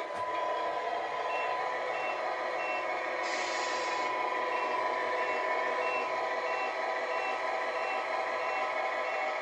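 Tamiya RC truck's MFC-03 sound unit playing a truck engine sound with a reversing beeper, about two beeps a second, starting a little over a second in. A short hiss about three seconds in.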